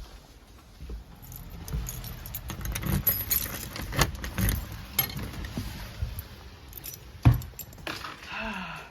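A bunch of keys jangling with scattered clicks and rattles, as when a door is unlocked and opened on arriving home; one sharp, loud knock about seven seconds in.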